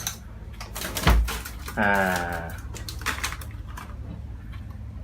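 Scattered knocks and clatter, with a heavy thump about a second in and a short voiced sound, held at one pitch, about two seconds in.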